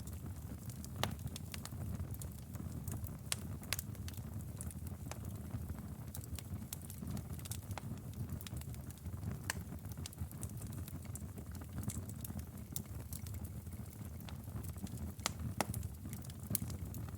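Outdoor fire burning with a steady low rumble and frequent irregular crackles and pops, a few of them sharper and louder.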